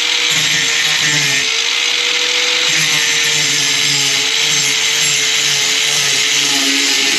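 A handheld power tool's motor running steadily, used to remove a faulty fitting from a water line, with a lower pulsing about twice a second.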